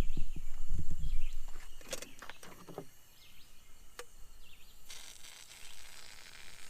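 A spoon beating sugar in a cup to whip it into Cuban coffee foam: a quick run of rhythmic strokes that stops about a second and a half in, followed by a few scattered knocks and a sharp click. Small birds chirp now and then, and a steady high hiss sets in about five seconds in.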